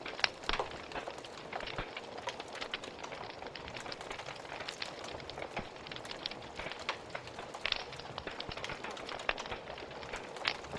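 Wood fire in a fireplace crackling, with a steady hiss of flames and irregular pops and snaps, a few of them louder.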